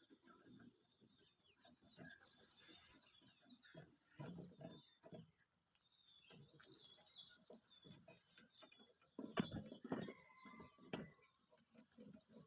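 Budgerigars chattering faintly in three short spells of rapid, high twittering, with scattered soft taps and knocks between them. A louder cluster of taps comes about nine to ten seconds in.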